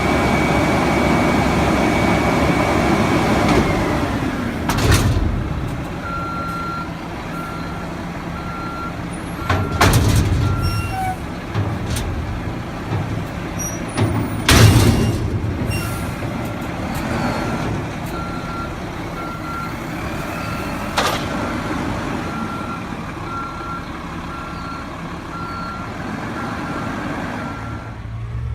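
Garbage truck running, with its backup alarm beeping steadily in two long runs while it reverses. The engine is loudest at the start, and several sharp bursts or bangs break in along the way.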